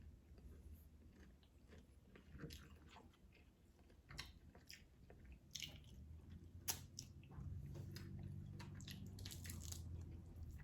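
Faint close-up eating sounds: chewing and crunching with scattered sharp mouth and food clicks. A low steady hum runs under the last three seconds.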